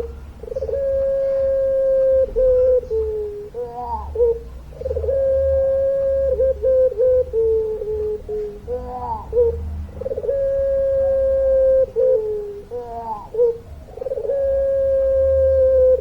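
A puter pelung, a ringneck dove bred for a long call, coos over and over. Each phrase opens with a short warbling rise, holds one long even note, and ends in a few falling steps, about four phrases in all.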